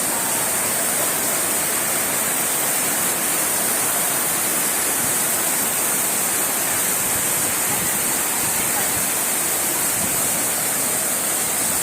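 Steady rushing hiss of water, even throughout with no separate splashes or strikes.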